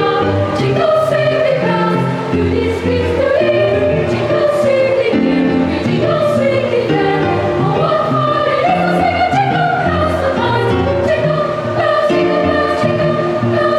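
Children's choir singing a Christmas carol over an instrumental accompaniment with low, steady bass notes.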